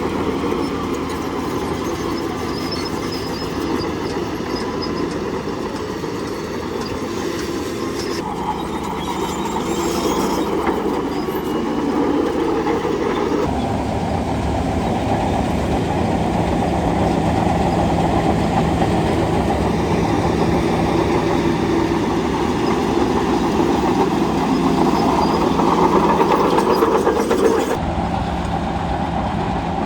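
Crawler bulldozer at work: the diesel engine runs steadily under load with the rattle and clank of its steel tracks. The sound shifts abruptly twice, about halfway through and near the end.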